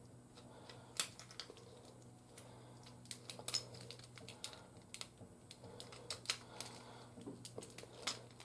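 Irregular small plastic clicks and taps as an action figure and its accessories are handled, over a faint steady low hum.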